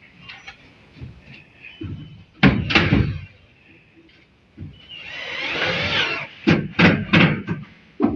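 Sharp knocks and bangs on hard surfaces: one about two and a half seconds in, then a quick run of them near the end, with a longer rough, wavering sound in between.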